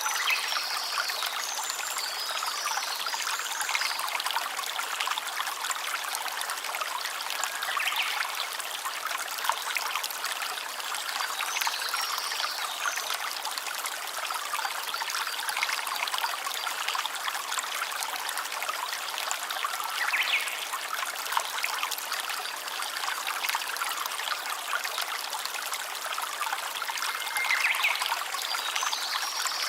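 Small stream trickling steadily over stones, with a few short high-pitched calls now and then.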